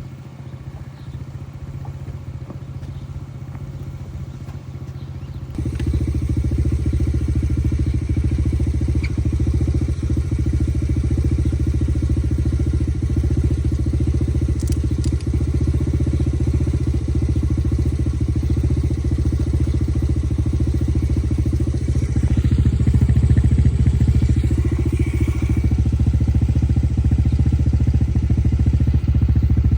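Motorcycle engine running steadily. It gets clearly louder about five and a half seconds in, and a little louder again around 22 seconds.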